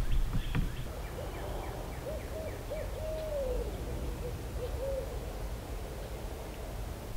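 A bird calling a short series of low, clean notes, the longest sliding down in pitch partway through, with a couple of soft knocks at the very start.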